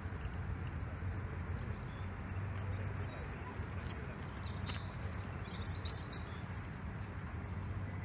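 Steady low outdoor rumble. A small bird gives short high chirps in quick clusters of two or three, about two seconds in and again about six seconds in.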